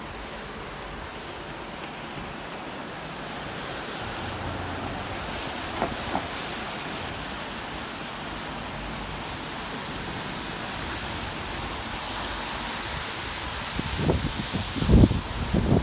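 Steady hiss of rain and traffic on a wet city street. There are two brief high blips about six seconds in, and loud, uneven low rumbles near the end.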